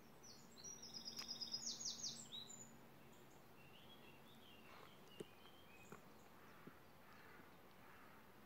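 Near silence in woodland, broken by a small songbird singing one quick, high phrase of rapid repeated notes that lasts about two seconds, followed by a few fainter chirps.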